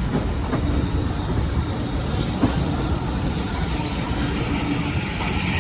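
Steam-hauled train running along the track with a steady low rumble. The locomotive's regular exhaust beats die away at the start, and a hiss builds about two seconds in.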